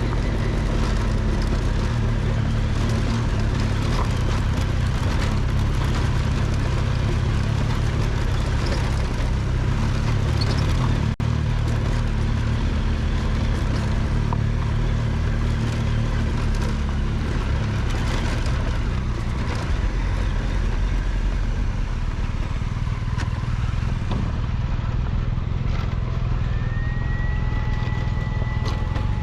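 Triumph Tiger 1200's three-cylinder engine running steadily under way on a dirt road, with rushing noise over it. Near the end a high tone rises and then holds steady.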